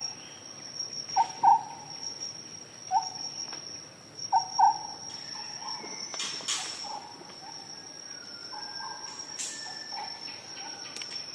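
Cricket-like insect trill, one steady high-pitched note running throughout, with short lower animal calls, several in pairs, scattered over the first half or so; the loudest calls come about a second and a half and about four and a half seconds in.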